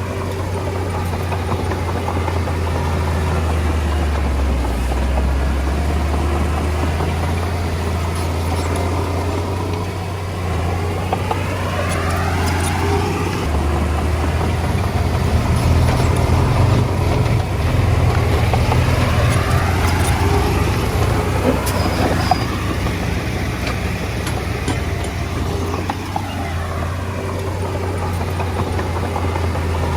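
Komatsu D20A bulldozer's diesel engine working under load, a steady low drone that shifts in pitch and grows louder in the middle, with a few faint knocks and clicks.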